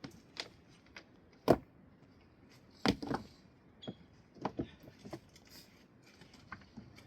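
Irregular sharp clicks and knocks of objects being handled, the loudest two about a second and a half apart near the start, with fainter taps scattered after them.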